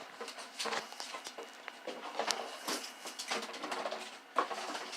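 A litter of puppies moving about and playing, with scattered light taps and scuffles of paws and small bodies.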